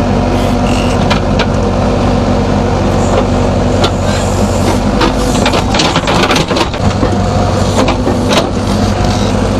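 JCB backhoe loader's diesel engine running steadily at working speed. Several sharp knocks and clanks come in the middle.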